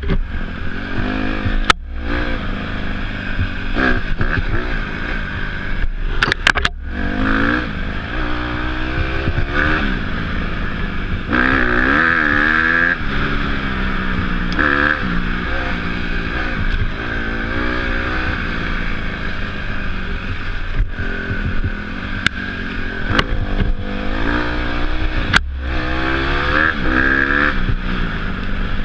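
Off-road motorcycle engine being ridden, its pitch rising and falling over and over as the throttle opens and closes, with a few sharp clicks and brief dropouts.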